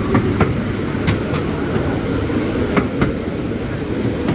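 Miniature railway train running with a steady rumble, its wheels clicking over the rail joints in pairs about every second or two.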